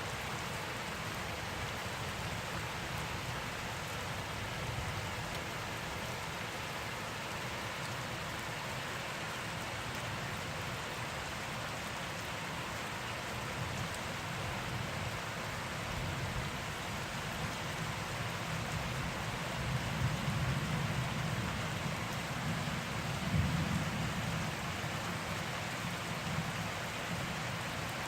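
Heavy rain pouring steadily, a dense even hiss of drops on surfaces. A low rumble swells up twice near the end.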